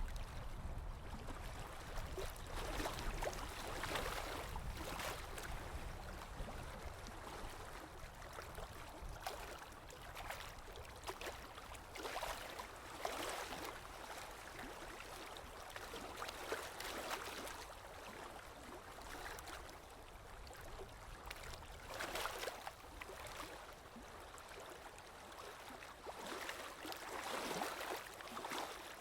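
Ocean waves washing in, a continuous wash of water that swells and falls back every few seconds.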